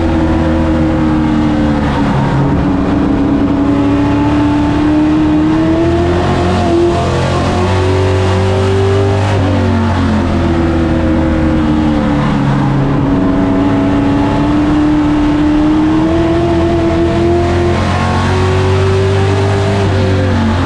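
Race truck engine running hard through laps on a short oval. The engine note climbs steadily as it accelerates down each straight, then drops as the throttle eases for the turns, in repeating waves every few seconds.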